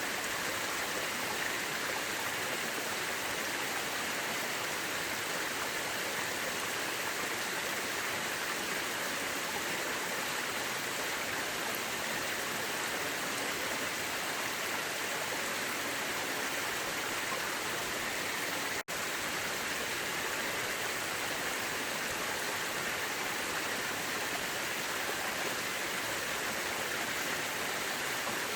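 Mountain river rushing steadily, an even, dense sound of flowing water. A split-second dropout comes about two-thirds of the way through.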